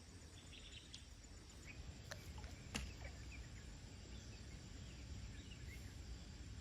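Faint outdoor ambience: a low steady rumble with scattered faint bird chirps, and two small clicks about two and three seconds in, the second one louder.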